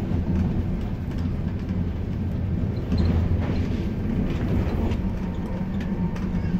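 A moving passenger train heard from inside an air-conditioned sleeper coach: a steady low rumble with a few faint clicks and rattles.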